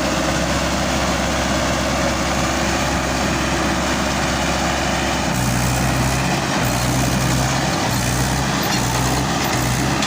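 Tractor's diesel engine running steadily while ploughing, with a low, even hum; its note deepens and strengthens about five seconds in.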